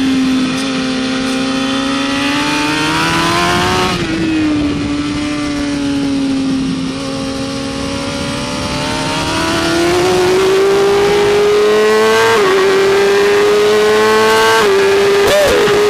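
BMW S1000RR superbike's inline-four engine at high revs, heard on board with wind rush: the pitch climbs and falls with the throttle, and drops sharply at gear changes about 4, 12 and 15 seconds in.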